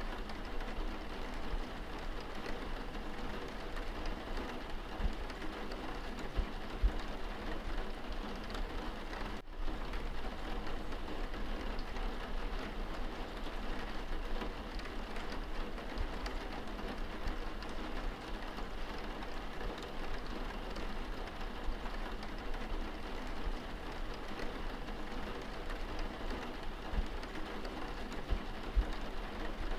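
Steady rain falling on window glass, heard from inside a room, with scattered small drop ticks. The sound dips out for a split second about nine seconds in.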